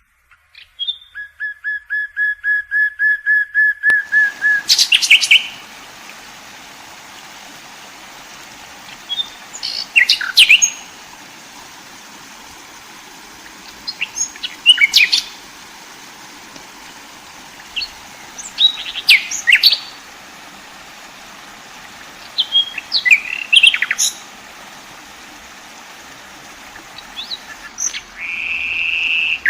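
Songbird singing, opening with an even run of repeated high notes at about seven a second, then short sweeping phrases every four to five seconds over a steady hiss.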